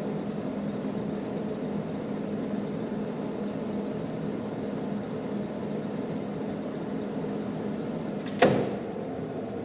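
Manual metal lathe running with a steady hum. About eight seconds in there is a single sharp metallic clank with a short ring.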